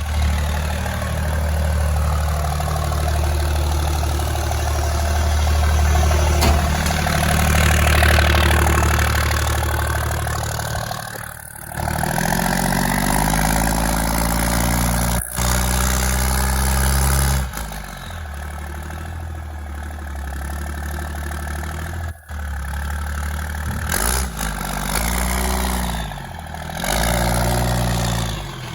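2006 Dodge Ram's 5.9-litre Cummins inline-six turbo diesel running steadily. After about twelve seconds its pitch sinks, and near the end it is revved up and let back down twice.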